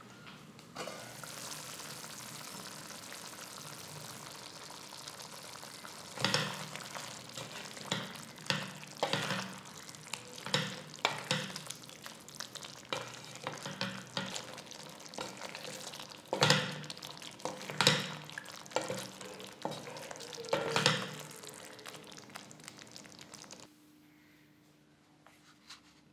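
Prawns in thick green cafreal masala sizzling in a stainless steel pan, starting about a second in. From about six seconds in they are stirred, with a string of sharp, irregular scraping strokes of the utensil against the pan. The sizzling stops near the end.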